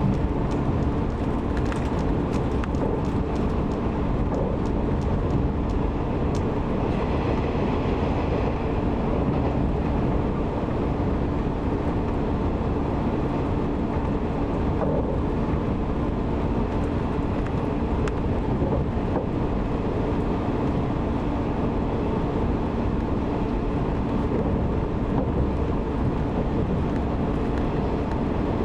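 A JR 185 series electric train running, heard from inside the carriage: a steady rumble of wheels on rail with a low, even hum. A run of sharp clicks comes in the first few seconds, as the wheels pass rail joints or points.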